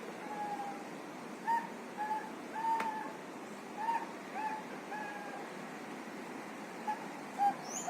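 A cockatoo giving about ten short, clear, hoot-like calls in irregular runs over a steady background hiss. There is one sharp click a little before the middle.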